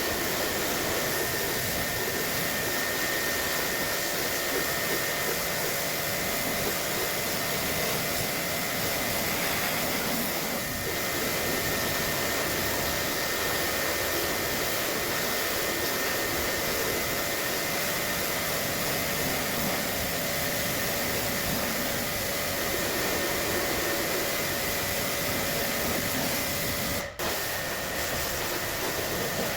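A motor-driven cleaning appliance running steadily, a continuous rush of air with a faint high motor whine, cutting out for an instant near the end.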